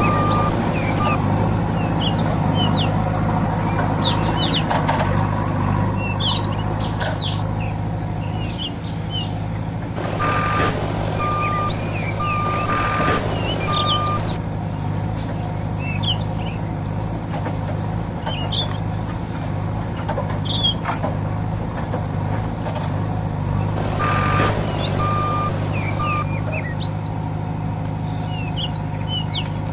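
A heavy vehicle's engine running steadily, with a reversing alarm beeping in short runs three times and birds chirping.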